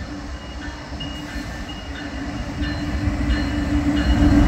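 Norfolk Southern freight train's diesel locomotives approaching, their engine rumble growing steadily louder.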